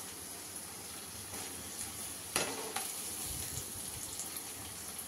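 Sliced onions and potatoes frying in oil in a kadai, a steady low sizzle, with two short knocks about halfway through as chopped tomatoes are tipped into the pan.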